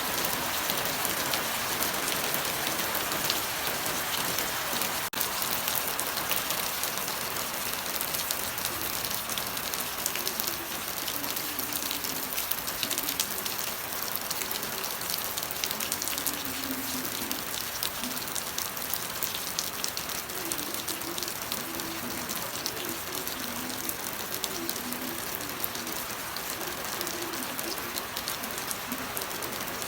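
Steady rain falling, a dense patter of drops on surfaces, with one sharp click about five seconds in.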